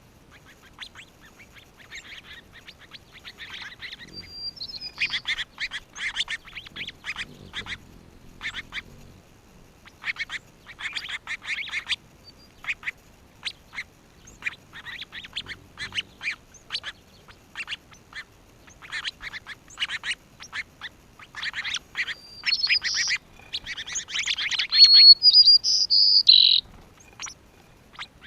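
Birds calling in bursts of rapid, scratchy chatter, each lasting a second or two, with a few short high whistles; the loudest stretch comes near the end.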